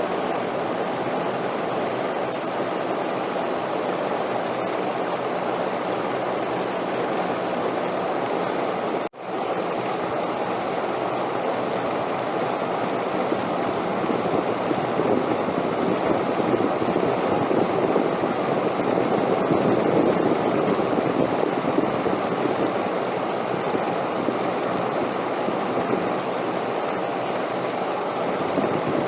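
Steady wind noise, swelling a little in the middle, with a brief sudden dropout about nine seconds in.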